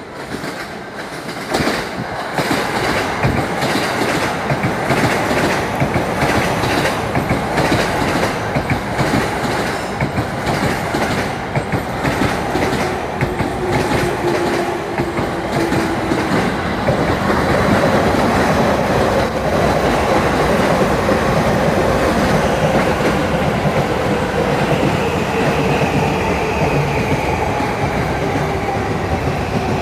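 An electric train running into a station at speed. Wheels clack quickly over rail joints as it arrives, then wheels on rail make a steady loud rumble, with thin whining tones that shift slowly in pitch.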